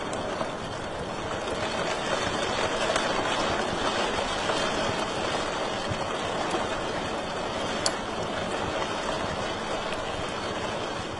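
Fire crackling in a fireplace: a steady hiss with scattered small pops, and one sharper pop about eight seconds in.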